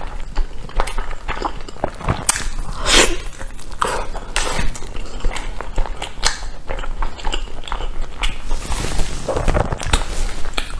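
Close-up mouth sounds of chewing a sticky glutinous rice dumpling with meat filling: a run of quick lip smacks and clicks.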